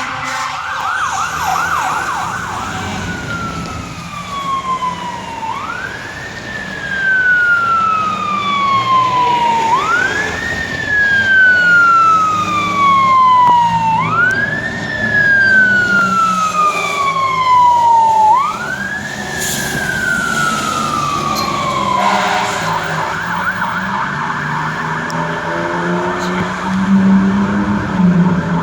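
Fire truck siren, loud, starting on a fast yelp, then switching to a slow wail that rises quickly and falls slowly about every four seconds. About two-thirds of the way through it goes back to the fast yelp.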